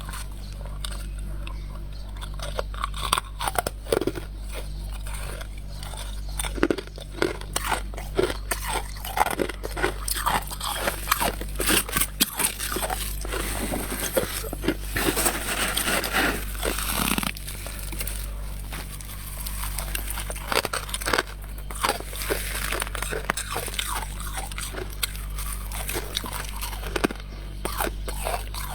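Mouthfuls of scraped frost being bitten and chewed: repeated crisp crunches throughout, denser about halfway through, over a steady low hum.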